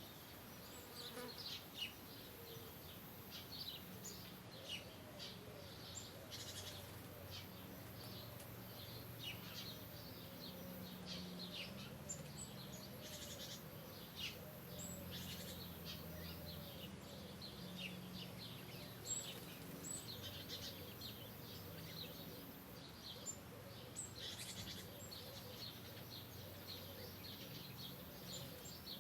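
Birds chirping, many short high chirps scattered throughout, with a lower call repeating steadily from about five seconds in.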